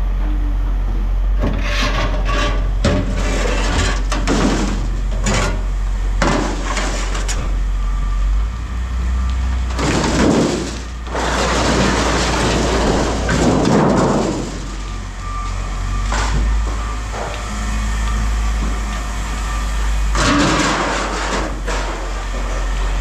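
A vehicle engine running steadily, with several loud bursts of clattering and scraping from scrap metal being handled, the longest a few seconds of noisy rattling about ten seconds in.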